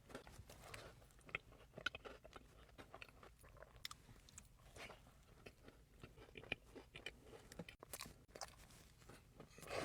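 Faint, irregular crunching and short clicks of someone chewing a bite of an apple pie cobbler donut.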